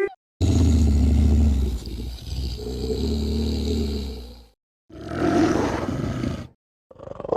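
Velociraptor sound effects: a long, deep, rumbling roar of about four seconds, then after a brief silence a shorter growling call, and another call starting near the end.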